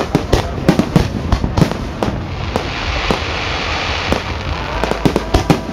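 Aerial fireworks going off in a rapid, irregular series of sharp bangs, with a hissing stretch in the middle.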